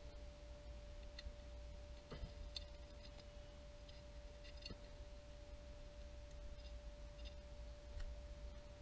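A few light clicks of small reel parts and tools being handled during a baitcasting reel teardown, faint, over a steady single-pitched hum and low rumble.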